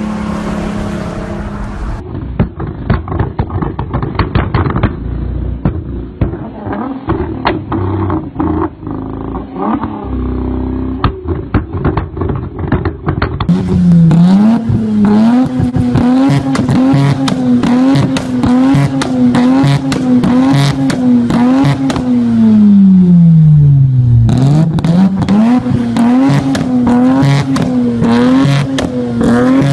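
High-performance car engines revving hard, with many sharp exhaust pops and crackles. In the second half one engine's pitch rises and falls over and over as the throttle is worked, then sinks low once and climbs back up.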